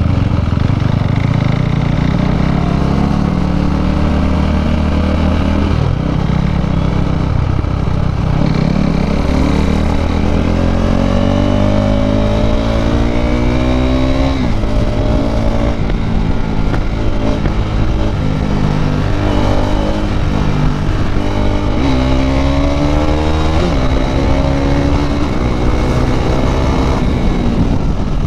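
KTM RC 390's single-cylinder engine through an Akrapovič exhaust, accelerating hard: its pitch climbs steadily several times and drops sharply between climbs, as on gear changes or the throttle being closed.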